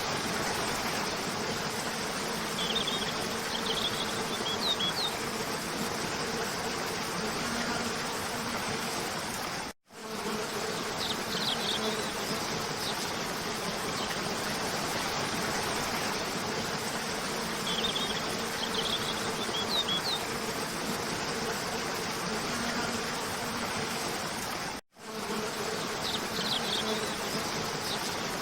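Steady rushing of a cascading waterfall, with bursts of short, high bird chirps every several seconds. The sound cuts out completely for a moment twice, about ten seconds in and near the end, where the loop joins.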